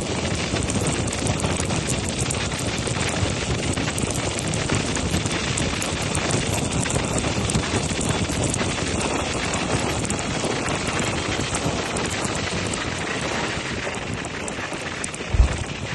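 Steady rush of wind over the microphone on a moving motorcycle, with a low wind buffet near the end.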